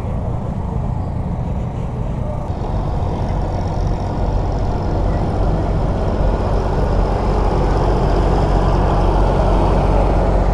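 Steady rumble of vehicle noise, with a noisier layer coming in about two and a half seconds in and growing louder toward the end.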